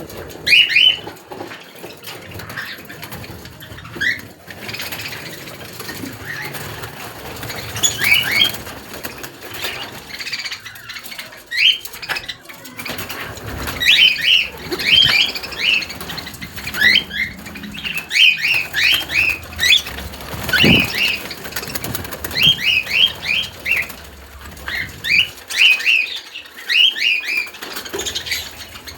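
Aviary cage birds, among them cockatiels, chirping: short rising calls, sparse at first, then in quick bunches of several notes from about eight seconds in.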